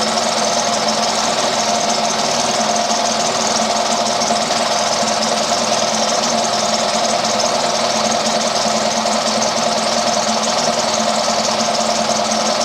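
Craftsman 1 hp two-cylinder oil-sump air compressor running steadily under load, pumping up tank pressure past about 85 psi toward its cut-out near 120 psi. An even mechanical drone with a steady hum.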